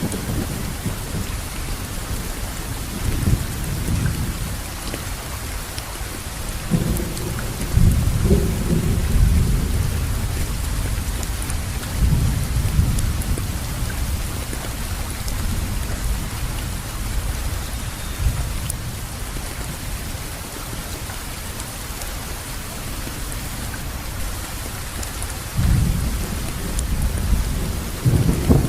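Steady rain falling, an even hiss, with deep thunder rumbling in and out several times; the longest and loudest roll comes about eight seconds in.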